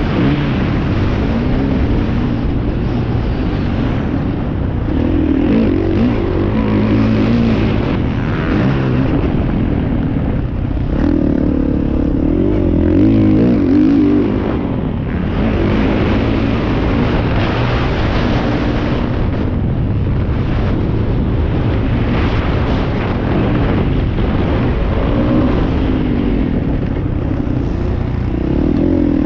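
Motocross bike engines running and revving, their pitch rising and falling again and again over a constant low rumble.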